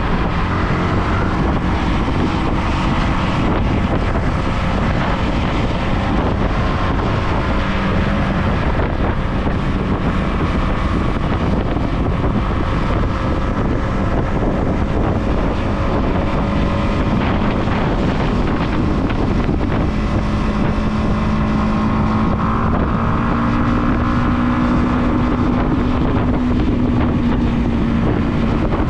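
Motorcycle engine running steadily at cruising speed while riding, its note drifting slowly and rising a little after about twenty seconds, under heavy wind noise on the microphone.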